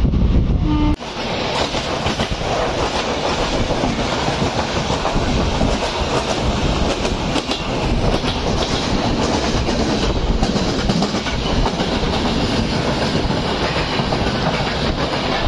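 Wind buffeting the microphone for about a second. It cuts off suddenly, and a moving train takes over: a steady rumble with its wheels clattering over the rail joints.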